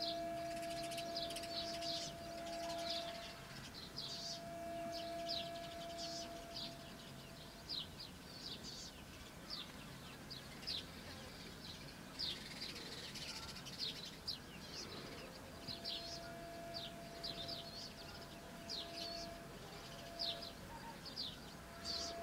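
Many short, thin, high chirps from small birds, several a second, over a steady hum that fades out about seven seconds in and returns about halfway through.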